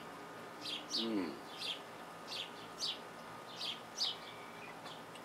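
A bird chirping over and over: short high chirps that slide downward, often in pairs, about one or two a second.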